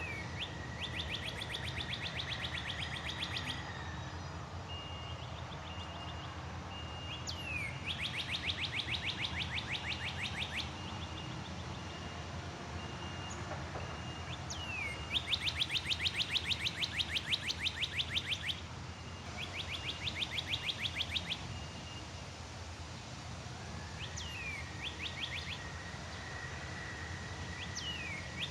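A songbird repeatedly singing a short downslurred whistle followed by a rapid trill lasting two to three seconds, four times, loudest about halfway through. A faint steady high note and a steady low rumble of background noise run underneath.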